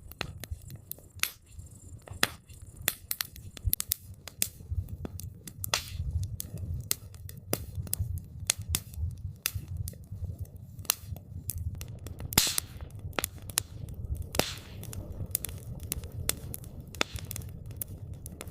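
Wood campfire crackling: an irregular, steady run of sharp pops and snaps over a low rumble of burning, with two louder pops about twelve and fourteen seconds in.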